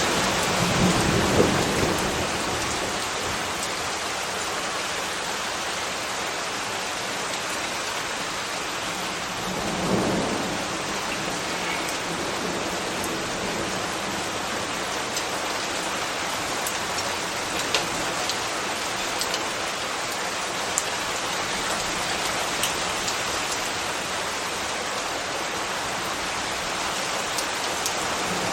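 Steady rain falling on hard surfaces, an even hiss. A low rumble swells in the first two seconds and another brief one comes about ten seconds in, with a few scattered drip ticks later on.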